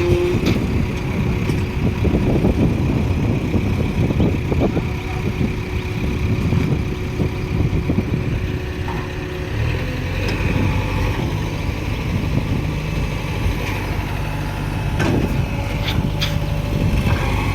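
Heavy diesel engine of construction machinery running under load in a mud recovery, with a steady whine over it that stops about halfway through; the engine pitch shifts in the second half.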